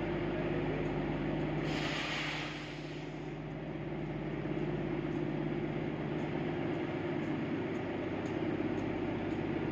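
Darjeeling Himalayan Railway train running, a steady mechanical hum with several low tones, with a brief hiss about two seconds in.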